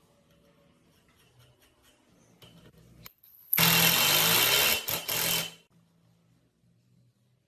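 A small power tool run in one short burst of about two seconds, briefly interrupted near the middle, after a few faint ticks and knocks of work on parts.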